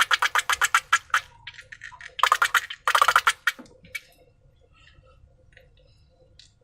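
Slime being squeezed and pressed by hand, giving a fast run of sticky clicks and crackles, about eight a second, that stops about a second in. Two short bursts of crackling follow around two and three seconds in, then only faint ticks.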